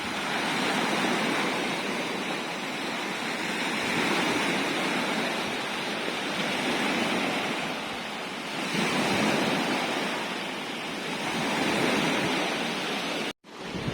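Sea waves breaking and washing up the shore in repeated swells every few seconds. The sound cuts out for a moment near the end.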